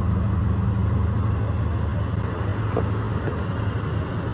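Steady car noise: a low engine hum with road and traffic noise, running evenly without sudden events.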